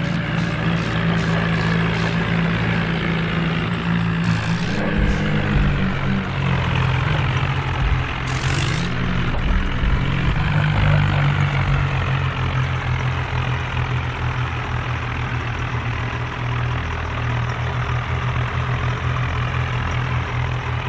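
Tractor's diesel engine running steadily. Its pitch wavers up and down in the first half, then holds steady. A brief burst of hiss comes about eight seconds in.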